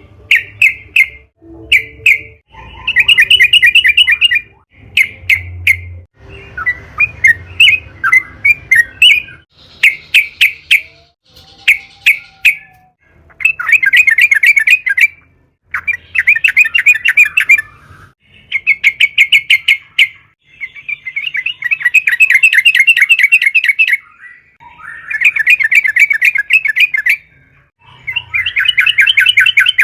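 Sooty-headed bulbul (trucukan) singing: short separate chirps at first, then rapid chattering trills, each phrase a quick run of repeated notes lasting one to four seconds, with short pauses between them.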